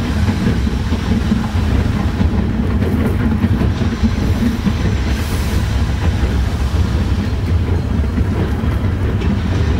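Metre-gauge railway train running along the track, heard from inside its rear cab: a steady low rumble of wheels on rails with a few light clicks.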